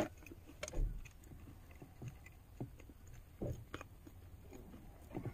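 A person chewing food with the mouth close to the microphone, scattered faint wet smacks and clicks.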